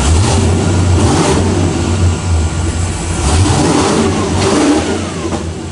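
1976 Chevrolet Camaro's 600-plus-horsepower engine running, blipped up in rpm several times over a steady low rumble, easing off a little near the end.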